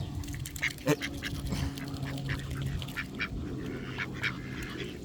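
A crowd of ducks quacking and chattering close by, with many short calls in quick succession over a steady low hum.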